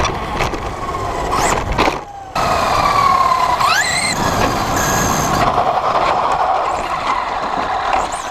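Electric motor of a radio-controlled truck whining up and down in pitch as it speeds up and slows, over steady rolling and tyre noise. The sound drops out briefly about two seconds in, then a sharp rising whine follows.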